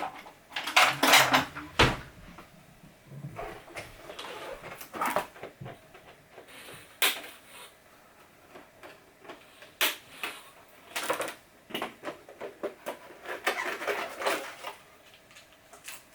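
Cutters snipping zip ties, with sharp clicks and snaps between bursts of rustling plastic packaging as items are handled in the box.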